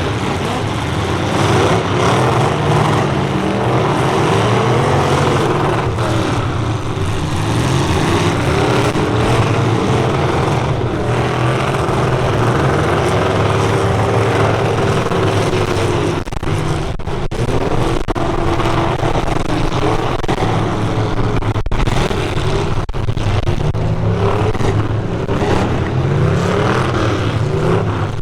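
Several full-size truck engines revving hard together, their pitches rising and falling as the trucks drive, with a few sharp hits from trucks colliding.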